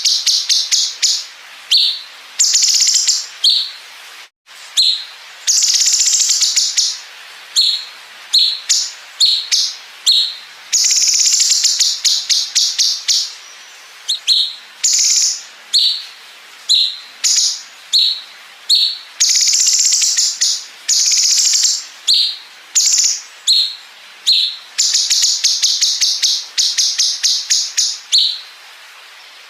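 Cucak cungkok song with 'bren' fill: fast, high-pitched rattling trills like machine-gun bursts, repeated over and over, some short and some running a second or two, with brief pauses between.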